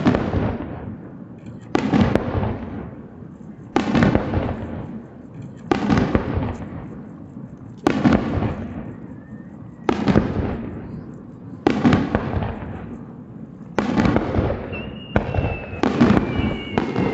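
Aerial fireworks shells bursting with sharp booms about every two seconds, each followed by a rolling echo that dies away. Near the end the bursts come faster and long whistling tones sound over them.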